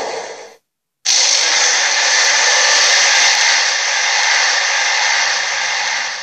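A loud, steady rushing hiss that cuts off abruptly about half a second in, stops for about half a second, then starts again and eases off near the end.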